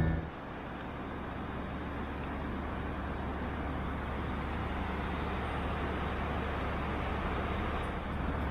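Steady, even rumble and hiss of a moving vehicle's interior noise, with no breaks or sudden events.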